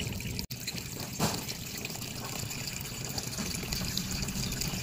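Water trickling and bubbling around an air-conditioner evaporator held under water while pressurised with nitrogen; the bubbles rising from it mark a leak. There is a short louder splash a little past one second in.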